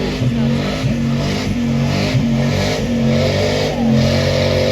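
Pull truck's engine running hard under load, its pitch dipping and recovering about twice a second, then settling into a steady, higher note near the end.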